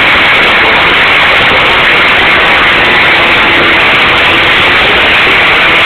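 Two-stroke motorcycle engines running, recorded so loud that the sound is a dense, distorted wash with no single rev standing out.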